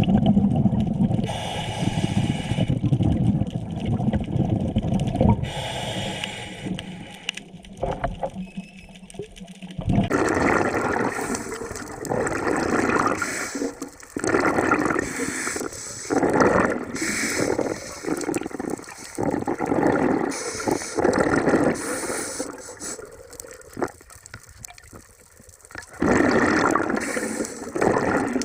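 Scuba diver breathing underwater through a regulator, the exhaled air bubbling out in repeated gushes. The sound changes about ten seconds in, from a low rumbling wash to separate surges every second or two.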